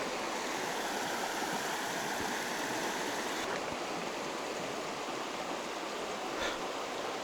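Steady rush of a fast mountain river's current, with one faint knock about six seconds in.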